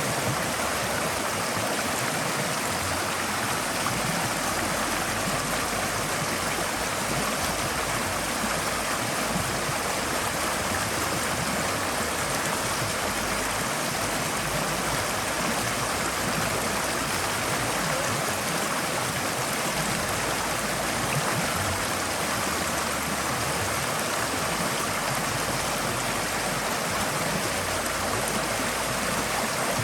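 Forest stream flowing steadily, a continuous rush and gurgle of water over stones.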